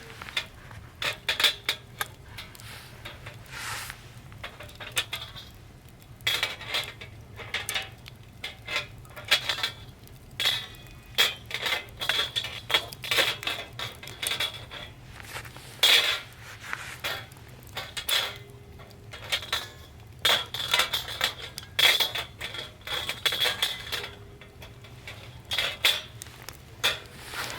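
Metal camp gear being handled: irregular metal knocks and clinks, many of them with a brief ringing tone.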